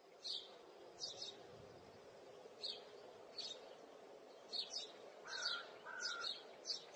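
Faint birdsong ambience: birds chirping in short, high calls every half second or so over a low steady hum, with two lower whistled notes about five and six seconds in.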